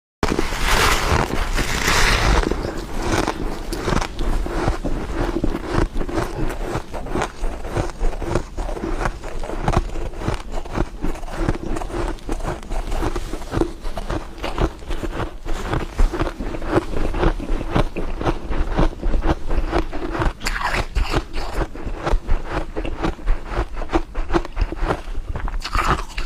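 A person biting and crunching frost ice, a dense run of irregular crackling crunches.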